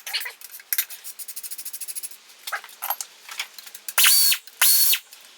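A ratchet clicks rapidly for about a second and a half. Then a power tool runs in two short whining bursts, loosening the intake manifold bolts on a Subaru 2.5 L engine.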